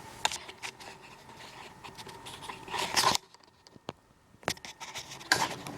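Handling noise close to the microphone: scattered clicks and scrapes, with a louder rustling scrape about three seconds in, then a short near-quiet gap broken by single clicks before more clicking resumes.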